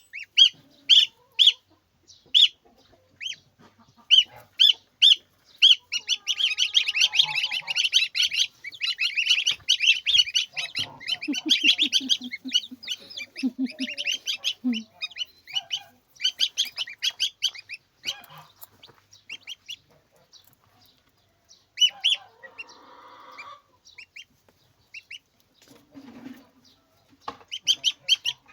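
A flock of chickens clucking and calling, with short calls repeating about twice a second at first, then many birds calling together for several seconds, and sparser calls towards the end.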